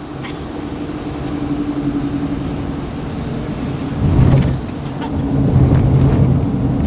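Car running, heard from inside the cabin: a steady engine and road drone that grows louder about four seconds in.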